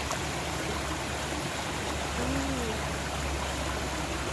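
Small garden waterfall splashing steadily into a pond.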